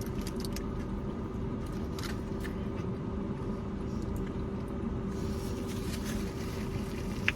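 Steady low hum of a vehicle at rest, heard from inside, with a few faint clicks of chewing.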